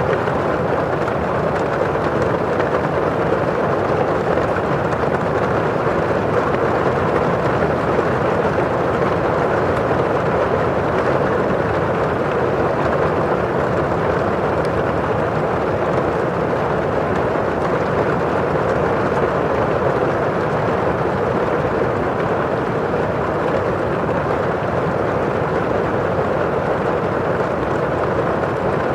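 Steady rain falling on a window pane and outside: a constant, even hiss.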